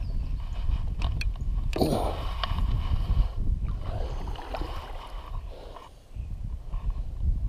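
Kayak paddle strokes: the blade dips and swishes through the water every couple of seconds, with a few sharp knocks near the start. Wind rumbles on the microphone throughout.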